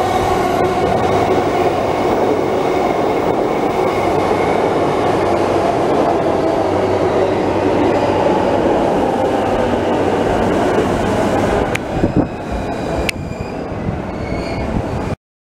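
JR Yamanote Line electric train pulling out of the station and running past, with a steady rumble of wheels and motors. Near the end there are a couple of sharp clicks, and then the sound cuts off abruptly.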